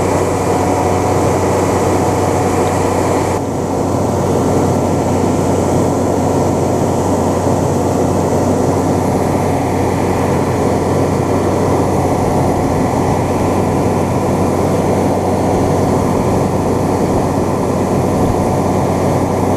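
A heavy engine running steadily: a loud, even low hum with a dense rumble over it, the higher hiss easing slightly about three and a half seconds in.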